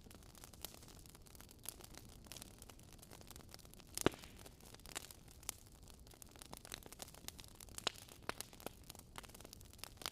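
Wood fire crackling, with many small irregular snaps and one sharper pop about four seconds in.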